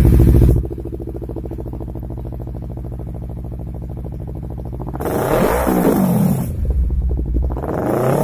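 Honda CBR sport motorcycle running through an X-Speed stainless racing exhaust: loud for the first half second, then idling steadily, then revved in quick throttle blips from about five seconds in, the pitch rising and falling, easing back briefly before revving again near the end.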